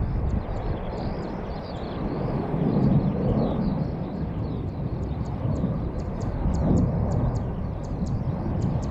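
Low, swelling rumble of aircraft engine noise, with faint high ticks about three times a second.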